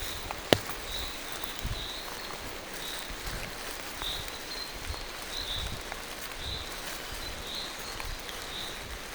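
Rain falling through forest trees, with soft footsteps on wet ground about once a second and a bird chirping over and over at a high pitch. A single sharp tap about half a second in.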